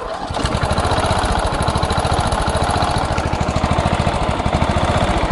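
MTD riding lawnmower engine catching right at the start, then running steadily with even firing pulses. It is running on a little choke, which it needs to keep from dying.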